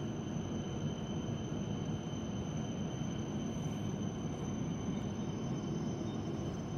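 Steady running rumble of an E7 series Shinkansen, heard from inside the passenger cabin, with a faint steady high whine over it.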